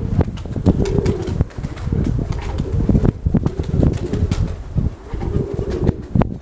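Domestic pigeons cooing repeatedly, with wings flapping, under strong gusty wind buffeting the microphone with a heavy, uneven rumble.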